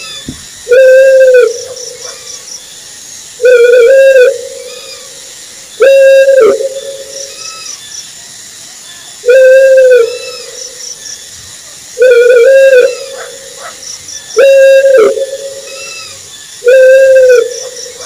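An owl hooting: one pitched, slightly arched hoot under a second long, repeated every two to three seconds, seven times. Faint high chirps in groups of three run underneath.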